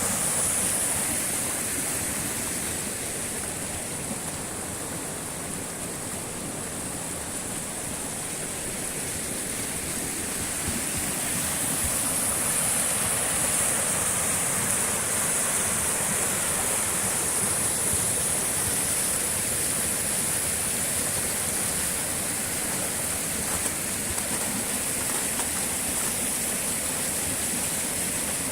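Waterfall rushing: a steady, dense hiss of falling water that eases slightly for a few seconds early on, then swells back up.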